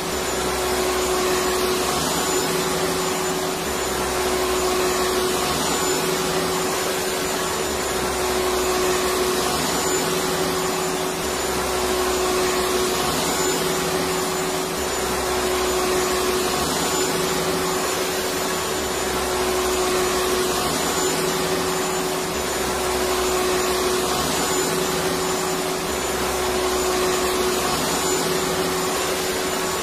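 Electric vacuum cleaner running steadily, a continuous whooshing hum with one steady tone in it. A low rumble underneath comes and goes about every three and a half seconds.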